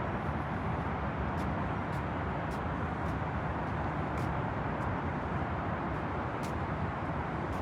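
Steady outdoor background noise, a low rumble and hiss without any clear rhythm, with a few faint, brief high clicks scattered through it.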